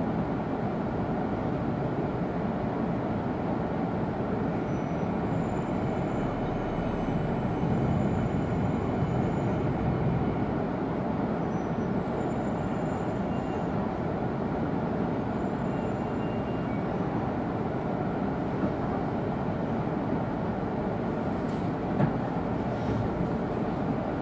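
Cabin noise inside a Tohoku Shinkansen E2-series car running on the line: a steady rumble of wheels on rail, with faint high tones coming and going. A small sharp tick sounds about 22 seconds in.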